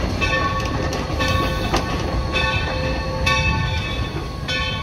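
Steam train's tender and passenger cars rolling slowly past at close range: a steady low rumble of wheels on rail with a couple of sharp clacks over rail joints.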